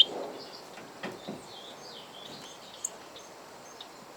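Small songbirds chirping softly: a scattering of short, high calls.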